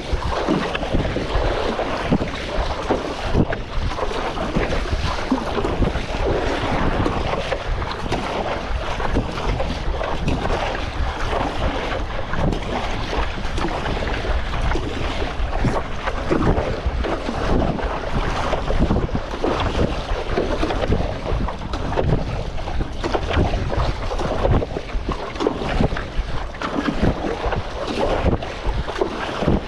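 Strong wind buffeting the microphone, over choppy water splashing around a stand-up paddleboard. The rumble is continuous and rises and falls unevenly throughout.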